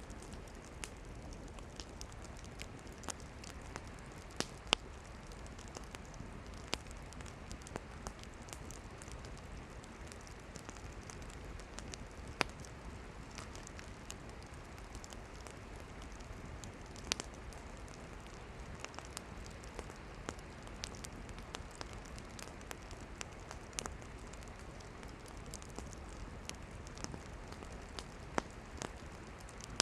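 Wood fire burning, with irregular sharp crackles and pops over a soft steady hiss of the flames; a few pops stand out louder.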